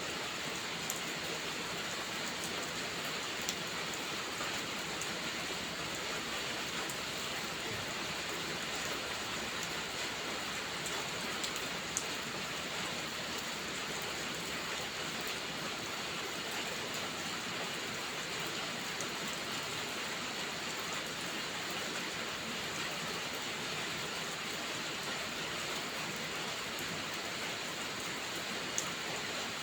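Steady, even rainfall hiss with a few scattered sharp ticks.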